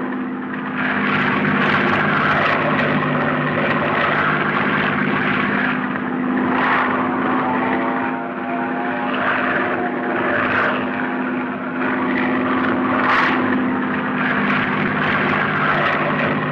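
Airplane engine running steadily in flight, with a constant pitched hum under a rushing hiss that swells and eases slightly.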